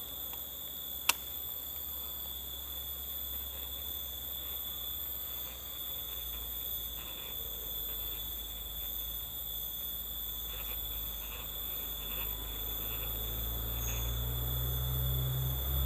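Steady, high-pitched drone of forest insects, several unbroken tones held together, with one sharp click about a second in and a low rumble building toward the end.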